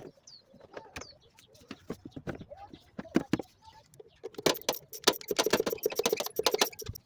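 Scattered clicks and small high bird chirps, then from about four seconds in a dense run of rapid metallic clicking and rattling from hand work on the freshly fitted air intake hose and its clamps.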